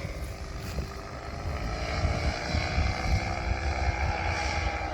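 Paratrike's engine and propeller droning in flight at a distance, growing a little louder past the middle, over wind rumble on the microphone.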